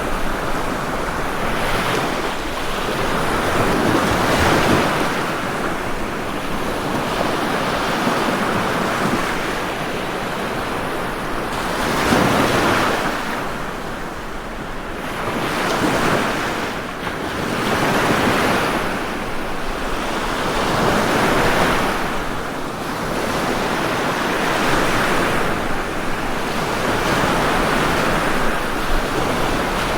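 Ocean waves breaking and washing up on the shore, a steady surf that swells and fades every few seconds.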